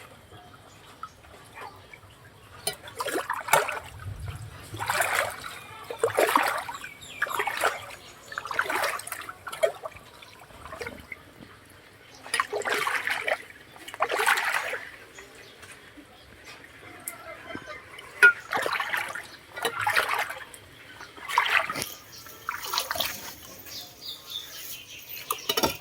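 Water splashing and trickling in a leaf-clogged rain-water drain, in a series of uneven splashes every second or two with quieter trickling between.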